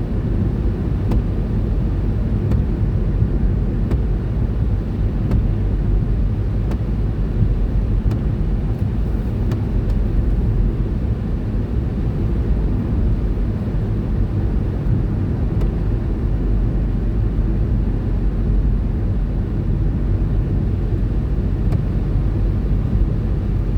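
Steady low road rumble and engine drone heard inside the cabin of a car cruising at about 50 mph.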